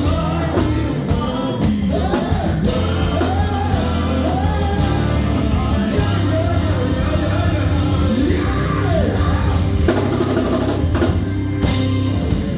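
Live gospel band music: a singer's voice over held electric bass notes and a drum kit with cymbals.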